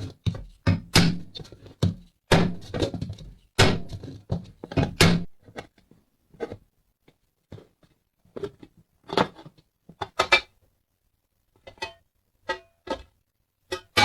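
Irregular knocks and thunks of hard objects being handled and set down, some ringing briefly. They are dense and loud for the first five seconds or so, then come sparser and fainter.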